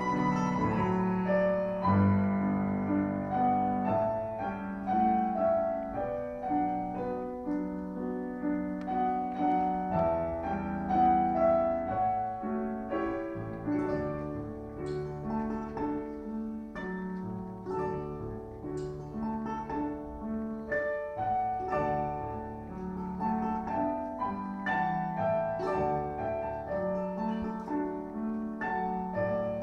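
Domra playing a Russian folk-song melody with piano accompaniment, a continuous stream of notes.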